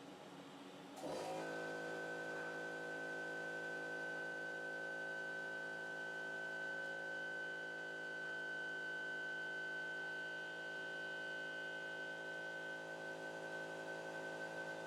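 Stepper motors of a CNC pen-plotting drawing machine running, starting about a second in and then holding a steady whine of many tones with one high tone standing out.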